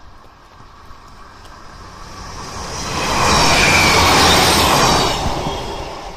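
Diesel multiple unit in Northern livery passing at speed. The noise of the train on the rails builds up, is loudest for about two seconds, then fades away.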